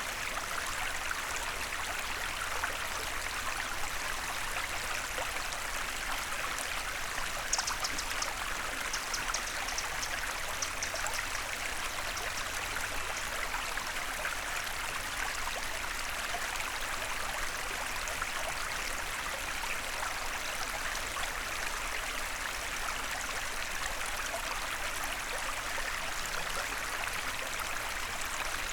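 Small forest stream flowing steadily, a continuous even rush of water. About eight seconds in, a faint run of high ticks sounds briefly above it.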